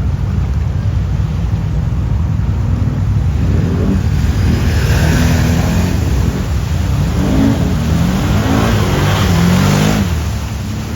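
Quad bike engine running, revved up and down repeatedly from about four seconds in, with a rushing hiss over it that fades near the end.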